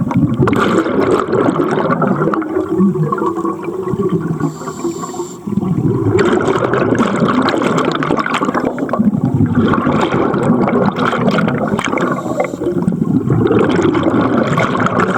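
Underwater rush and gurgle of scuba divers' exhaled bubbles from their regulators, coming in surges with short lulls between breaths.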